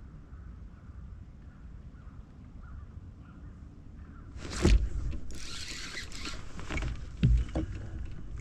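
Wind rumbling on the microphone, then two sharp knocks about two and a half seconds apart with a scraping rustle between them.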